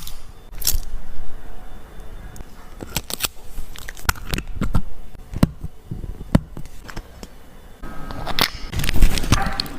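Irregular clicks, small knocks and scrapes of metal tools and parts being handled on a wristwatch under repair, with a busier stretch of clatter near the end.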